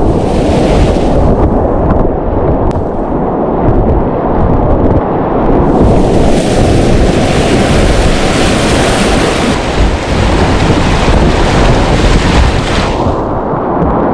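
Loud, steady rush of whitewater on a class III river rapid, mixed with wind buffeting the microphone. From about six seconds in to about thirteen the rush turns brighter and hissier, then drops back to a low rumble.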